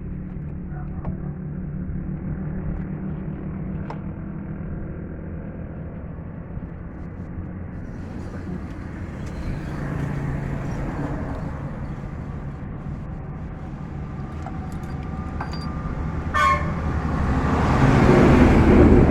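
Engine idling steadily with a low hum. A brief high-pitched sound comes about sixteen seconds in, and a louder rushing noise builds near the end.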